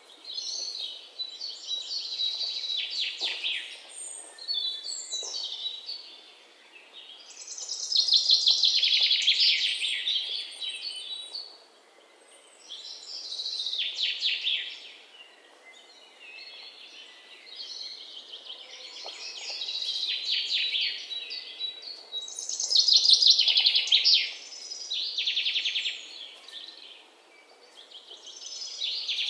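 Birds calling: high chirping and trilling in repeated bouts that swell and fade every few seconds.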